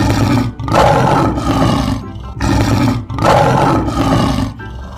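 Lion roaring twice, each roar about two seconds long.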